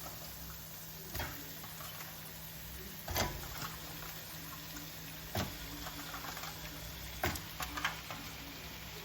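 Washed chicken pieces going into hot masala and oil in a kadai: a steady wet sizzle, with about five utensil knocks against the pan spaced a couple of seconds apart.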